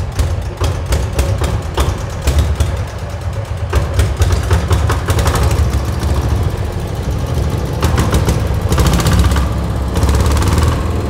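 EM185 8.5 hp single-cylinder diesel engine running steadily with a rapid, even low knock of its firing strokes, a healthy sound the seller calls first class.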